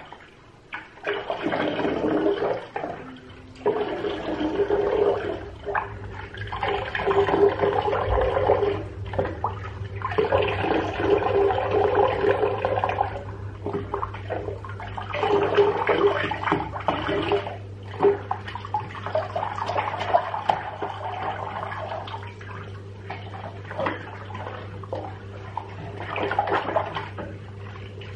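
Water running from a tap into a bathtub. It comes in spells of a few seconds with short breaks, over a steady low hum.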